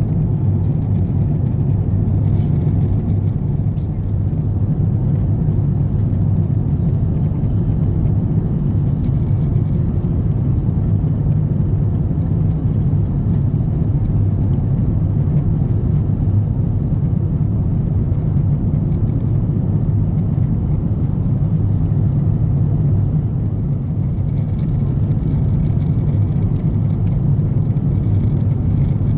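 Steady cabin noise of an Airbus A350-900 airliner in flight: an even, unbroken low rumble of the engines and rushing air, heard from inside the economy cabin.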